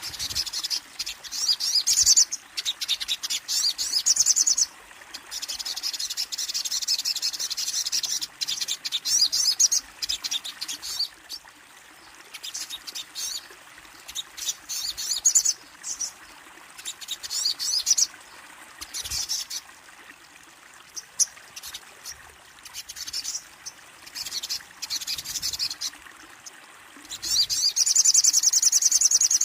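A sunbird (the bird sold in Indonesia as 'kolibri ninja') singing: repeated bursts of rapid, high-pitched trilling chirps, each lasting a second or a few seconds, separated by short pauses, with a longer trill near the end.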